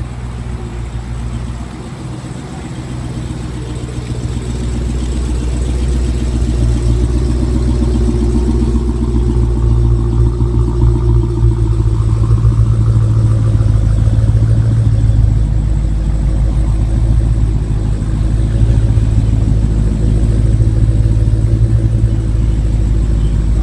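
2015 Dodge Challenger SRT8's V8 idling soon after a cold start, a steady deep exhaust rumble that grows louder over the first several seconds and then holds even.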